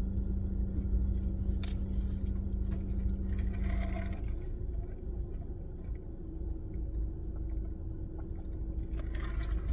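Steady low rumble of a car idling, heard from inside the cabin, with a steady hum that drops out about four seconds in and a higher hum that comes in a couple of seconds later. A short sip through a straw around four seconds in.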